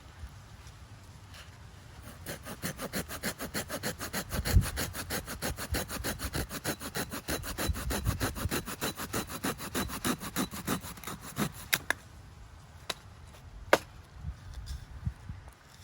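Hand saw cutting through firewood with quick, even back-and-forth strokes, starting about two seconds in and stopping about twelve seconds in. A couple of sharp clicks follow.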